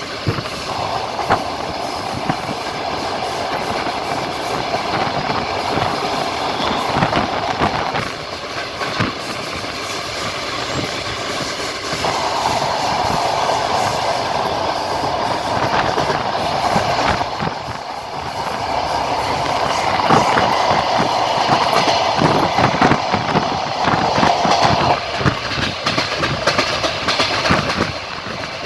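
Passenger train carriage wheels clattering over rail joints at running speed: a continuous rolling rumble with quick, irregular clicks and knocks, and a rushing noise that swells and fades several times.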